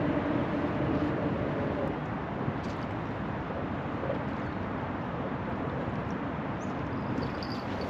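A passing engine's drone fades out about two seconds in. It leaves a steady outdoor noise of wind, water or distant traffic.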